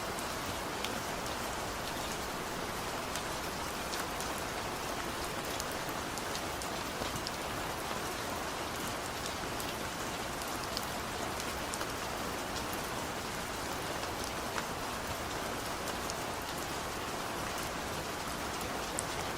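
Steady rain falling, an even hiss with many individual drops ticking on a surface, no thunder.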